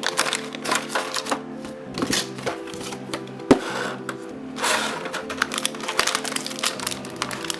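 Background music with steady held notes, over the clicks and crackles of a toy's plastic and cardboard packaging being opened by hand, with a sharp snap about halfway through and a brief rustle just after it.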